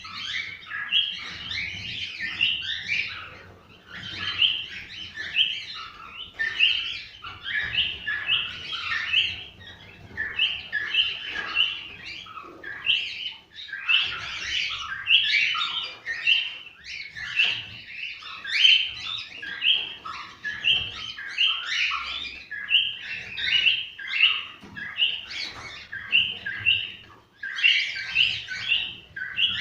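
Cockatiels chirping and whistling continuously, many short overlapping calls.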